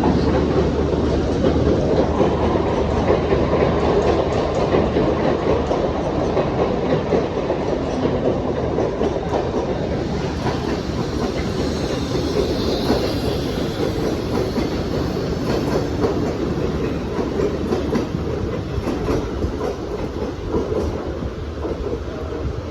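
Mumbai suburban local train (electric multiple unit) running along the platform, wheels clattering over the rail joints in a steady dense rumble. The sound comes up sharply at the start and eases off gradually.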